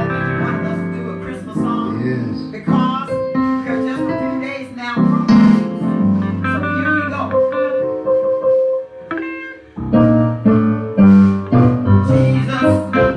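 Live gospel church music: guitar and keyboard playing with a voice singing. The music thins out briefly about nine seconds in, then comes back in full.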